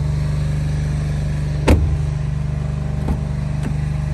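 Volkswagen Golf 1.6 TDI four-cylinder diesel engine idling with a steady, even hum. A sharp knock comes about two seconds in, and two lighter clicks follow near the end.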